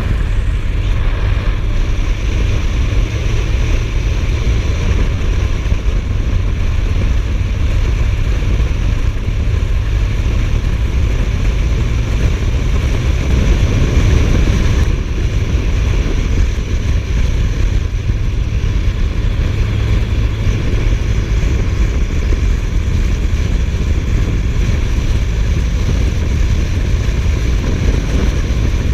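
Suzuki GSF1250S Bandit motorcycle riding along: steady rushing wind noise on the microphone over the inline-four engine running evenly.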